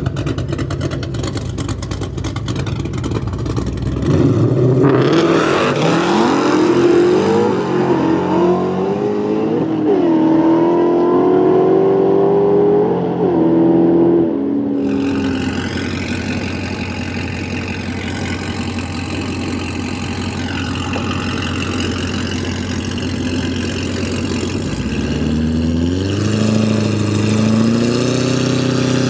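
Drag race car engines rumbling at the line, then a hard launch about four seconds in, the engine pitch climbing and dropping back with each gear change for about ten seconds. After that a steadier engine sound, with another rise in pitch near the end.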